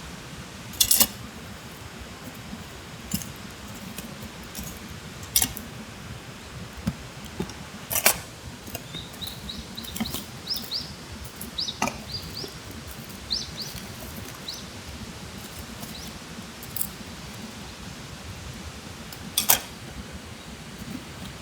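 Campfire crackling steadily, with a handful of sharp clicks or knocks, the loudest near the start and near the end. Short high bird chirps come in a run in the middle.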